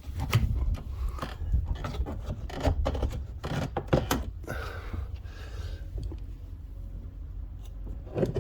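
Plastic retaining clips of an MG ZR front door card popping and snapping as the panel is prised off the door with a trim tool, with plastic scraping against plastic. The sharp irregular clicks come thick at first and thin out in the second half.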